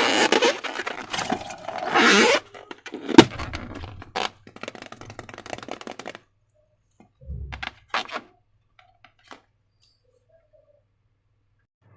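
Hands working slime and plastic balloons: about two seconds of dense, crackly handling noise, a single sharp click about three seconds in, then scattered small clicks and a soft low thump before it falls nearly silent.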